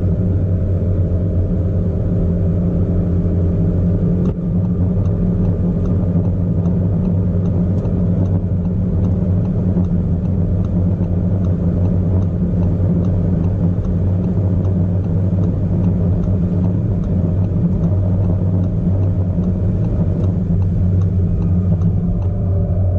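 ABT-tuned Audi SQ5 running at a steady pace, with a low, even engine and exhaust drone that barely changes pitch. The drone dips briefly about four seconds in.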